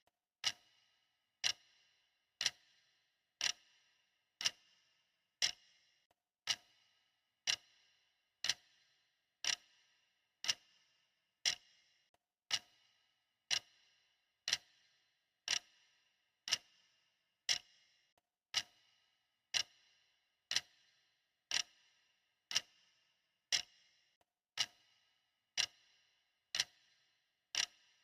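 Clock ticking steadily at one tick a second, each tick a crisp, short click.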